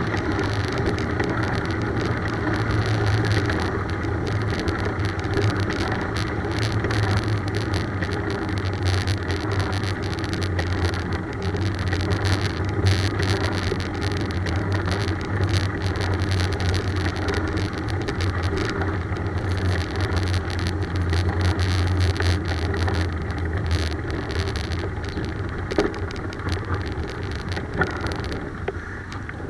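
Continuous rushing road and wind noise of a bicycle ride, with a steady low rumble that cuts off abruptly at the very end.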